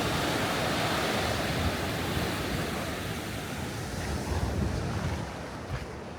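Sea surf washing on the shore, with wind gusting on the microphone; the wash eases off over the last couple of seconds.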